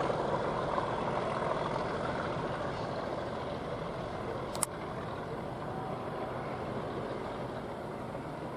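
Class 37 diesel locomotive running on the move, its engine and wheel noise slowly fading as it draws away, with a single sharp click about halfway through.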